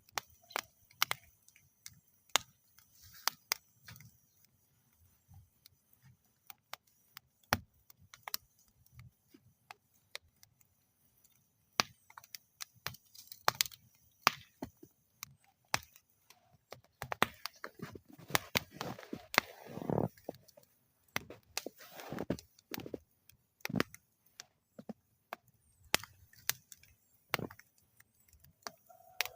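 Wood campfire in a metal fire bowl crackling, with sharp irregular pops and snaps. The crackling grows busier for several seconds just past the middle, with a softer hiss under the pops.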